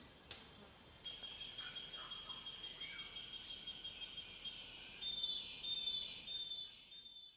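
Tropical rainforest ambience: insects trilling steadily at a high pitch, joined about a second in by another steady insect drone, with bird calls rising and falling over them, loudest a little past the middle. It fades out at the end.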